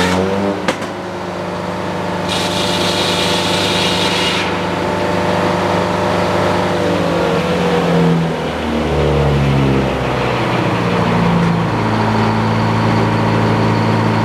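Sawmill engine running, its pitch falling and then rising again as the throttle changes. There is a brief click about a second in and a few seconds of high hiss early on.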